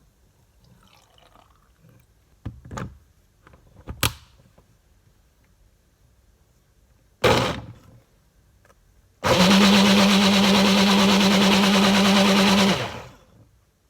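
A few clicks and knocks, then a countertop blender's motor: one short pulse, and after a pause a steady run of about three and a half seconds with a constant hum, blending a smoothie of banana and cucumber.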